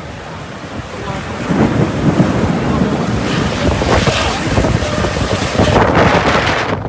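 Strong storm wind buffeting the microphone in gusts, growing louder about a second and a half in.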